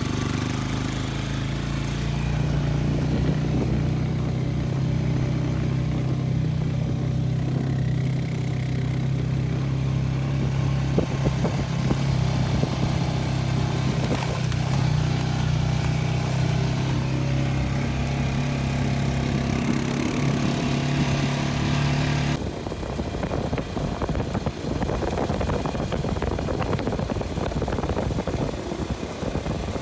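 An engine running at a steady speed, then an abrupt change about 22 seconds in to a rougher, rattling engine sound.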